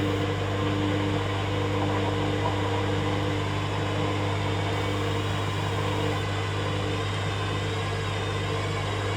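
Hoover Dynamic Next washing machine running through its rinse-and-spin programme: a steady motor hum with a few fixed tones above it, one of which fades out near the end.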